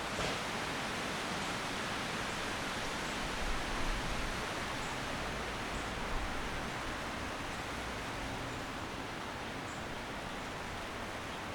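Steady rush of wind through courtyard trees, with a few faint high chirps now and then and a brief low rumble about four seconds in.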